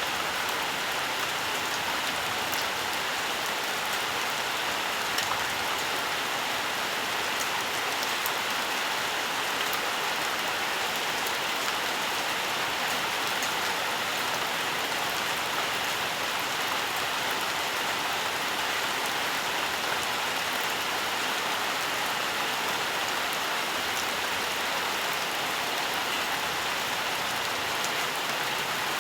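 Steady, even rainfall with fine drop patter on surfaces and no breaks or swells.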